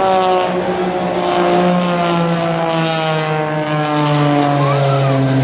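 Propeller airplane flying past, its engine and propeller drone slowly falling in pitch as it goes by.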